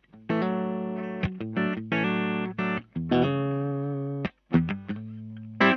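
Larrivée RS-2 electric guitar played through a Ceriatone OTS Mini 20 amp head, with a clean-to-lightly-driven dry tone and no reverb: a run of strummed chords, some held for a second or more, others short stabs that cut off sharply into silence.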